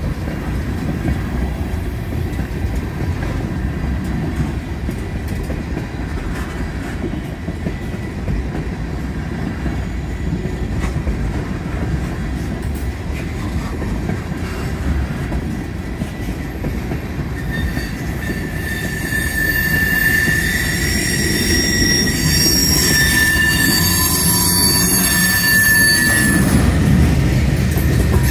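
Train rolling past with a steady low rumble. About two-thirds of the way in, its steel wheels start squealing against the rails in several high, sustained tones that last to the end.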